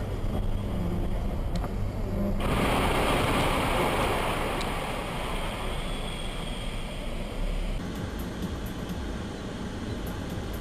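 Road noise from a moving car, heard from the dash cam inside: a steady low rumble. About two seconds in, a loud rushing hiss starts suddenly and cuts off abruptly about five seconds later.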